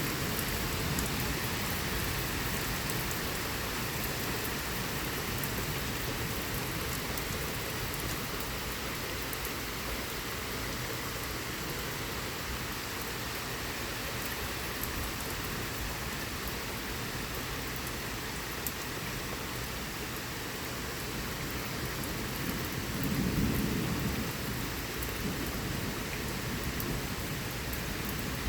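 Heavy thunderstorm rain falling steadily, with a short low rumble of thunder swelling up near the end.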